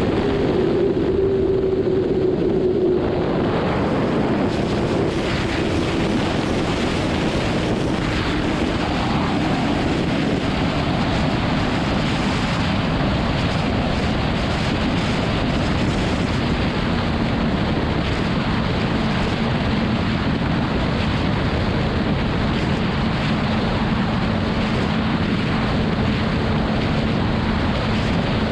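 Wind rushing over the microphone at highway speed, with the BMW S1000RR's inline-four engine note underneath; the engine pitch slowly falls over the first dozen seconds and then holds steady.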